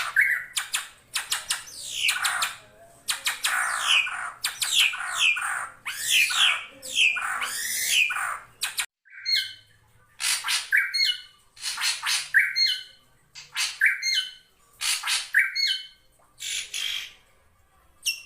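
Drongo calling: a dense run of scratchy calls with falling notes, then after a brief pause halfway through, a short phrase repeated about every three quarters of a second, each a sharp note that jumps upward.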